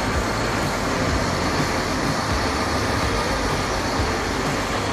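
Steady vehicle and road traffic noise, an even rumble and hiss with no distinct events.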